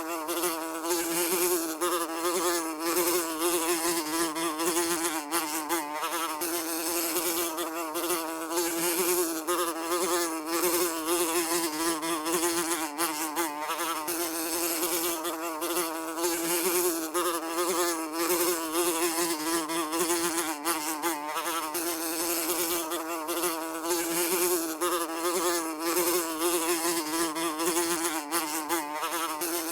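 A fly buzzing continuously, its steady hum wavering slightly in pitch.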